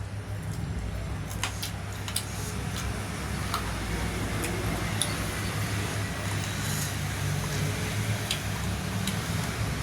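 A steady low hum, like a motor or engine running, under scattered small clicks and smacks of eating.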